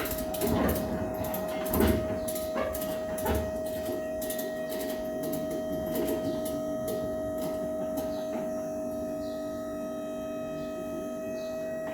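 3D printer running: a steady machine whine under a run of sharp clicks in the first few seconds, after which the whine carries on alone.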